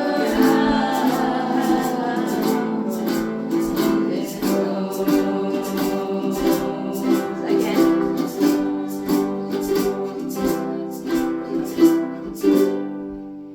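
A group of voices singing together over strummed ukuleles, with a steady strumming beat. Near the end the strumming stops and the last chord fades out.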